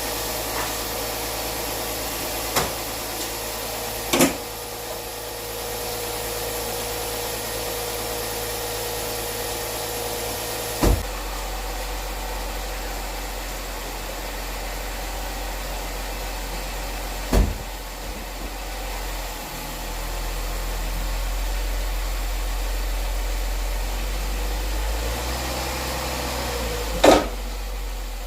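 Steady mechanical running noise, typical of the Charger's 3.5-litre V6 idling during an engine oil flush, with a few short sharp knocks and clanks; the background changes abruptly twice, about eleven and seventeen seconds in.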